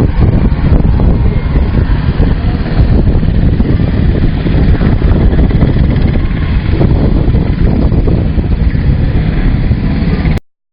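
UH-60J helicopter's rotors and twin turboshaft engines running loud and steady, at taxiing power. The sound cuts off abruptly near the end.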